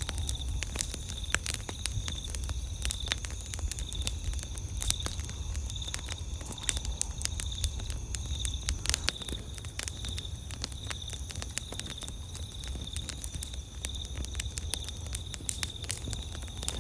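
Wood fire crackling with many sharp pops, over a steady high trilling of night insects and a low rumble underneath.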